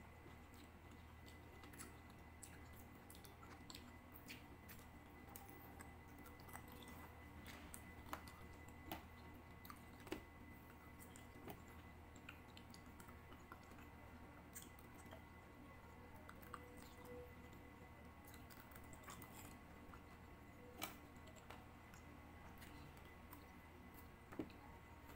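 Faint chewing of grapes, with scattered small wet clicks and squishes from the mouth and a few sharper clicks, over a low steady hum.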